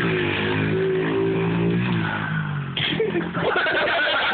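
Mini bike's small engine running and revving, its pitch wavering up and down. A little under three seconds in it breaks off suddenly into a rougher, noisier sound.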